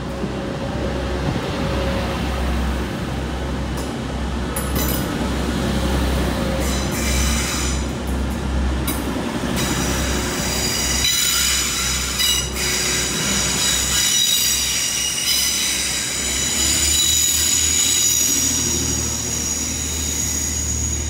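Train running on the rails with a heavy low rumble. About halfway in, a high-pitched metallic wheel squeal sets in and holds steady until the sound cuts off abruptly.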